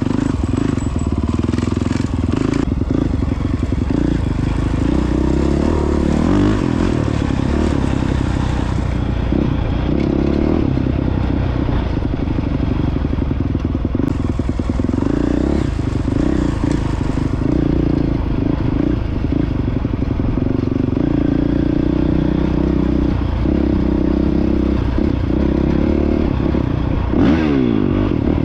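Honda CRF450X single-cylinder four-stroke dirt bike engine running under way off-road. The revs rise and fall continuously as it is ridden.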